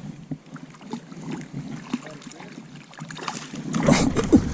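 Faint water sloshing and small knocks around a fishing kayak as a hooked smallmouth bass is played close to the boat, with a louder burst of splashing and handling noise about four seconds in as the fish is brought to the net.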